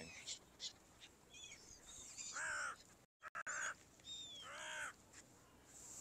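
A bird gives two drawn-out calls about two seconds apart, each rising and then falling in pitch, with a few fainter short high chirps around them.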